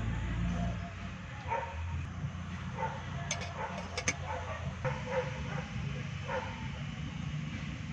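A dog barking and yipping in short calls about every second, over a low steady rumble, with a couple of sharp clicks near the middle.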